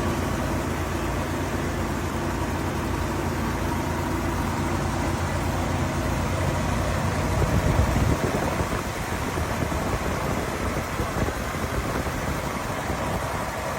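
1960 Lincoln Premier's 430-cubic-inch V8 idling steadily, growing briefly louder about seven or eight seconds in.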